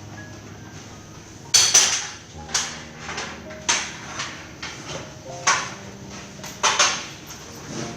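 Irregular knocks, like hammer strikes on metal, about eight of them spaced roughly half a second to a second apart, over steady background music.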